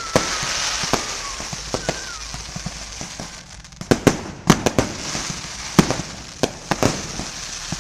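Aerial fireworks bursting: sharp bangs at irregular intervals over a continuous crackling hiss, with a whistling shell sliding down in pitch in the first second.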